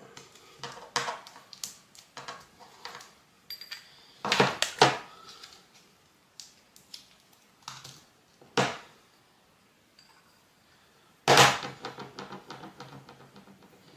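Scattered metallic clicks and knocks of small brake caliper parts and tools being handled and fitted on a workbench, with louder knocks a few times, about four, eight and a half and eleven seconds in.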